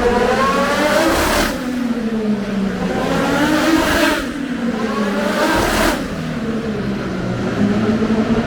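Race cars passing at speed on a circuit, their engine notes climbing and then dropping away as each goes by, with louder passes about a second in, around four seconds, and again just before six seconds.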